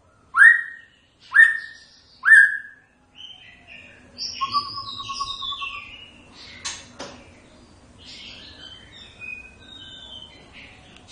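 White-rumped shama singing: three loud, sharp notes sweeping down in pitch about a second apart, then a quieter, varied warbling phrase of quick notes at shifting pitches.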